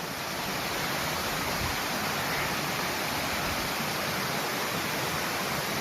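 Steady rush of a waterfall heard up close: an even, unbroken wash of water noise that swells slightly in the first half-second, then holds.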